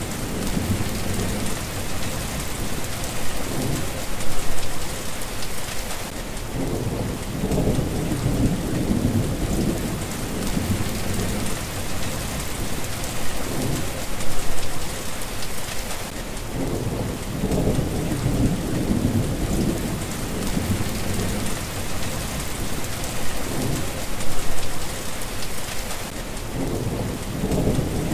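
Steady rain hissing, with low rolling thunder rumbling under it. The rumble swells and fades about every ten seconds.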